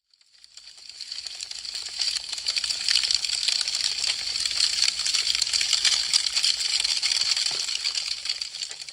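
Burning wood crackling and popping in a dense stream of sharp snaps, fading in from silence over the first couple of seconds.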